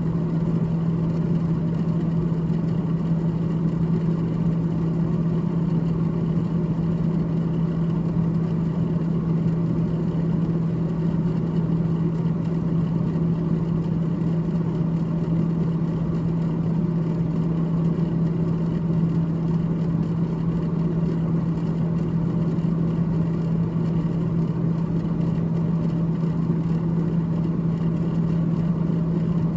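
Freezer fan of a GE GTH18XCTZRBB refrigerator running continuously: a steady, unchanging hum with a strong low tone over a soft whir of moving air.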